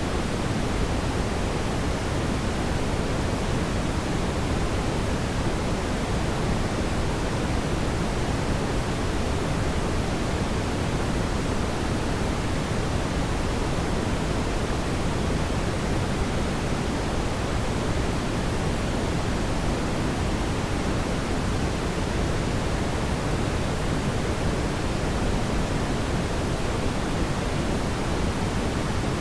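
Steady rushing hiss and low rumble of a fireplace fire, even throughout, with no distinct crackles or pops.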